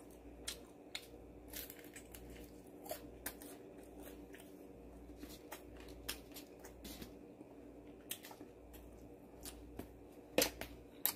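Close-up chewing and biting of sauce-coated guobaorou (Chinese sweet-and-sour fried pork), many small wet clicks and crunches, with light taps of wooden chopsticks on a plastic bowl. A faint steady hum sits underneath, and there are two louder clicks near the end.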